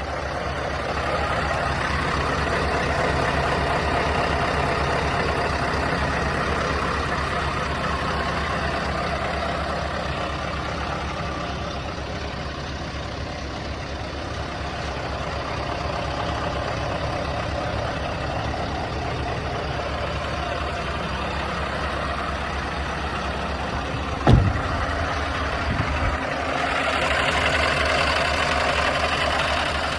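Scania S520's V8 diesel engine running steadily with a deep drone. About three-quarters of the way in there is a single sharp knock, the loudest moment, with a smaller one soon after. A brighter hiss rises near the end.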